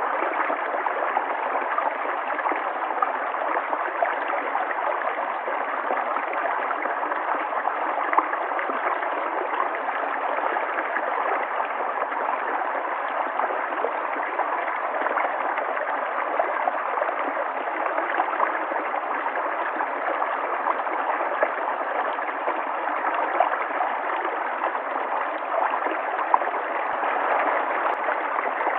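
River water flowing, a steady rushing with small gurgles scattered through it.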